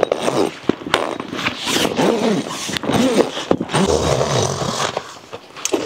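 Hot-tent fabric and poles being handled during pitching: rustling, scraping and knocking, with a few wavering squeaks in the middle.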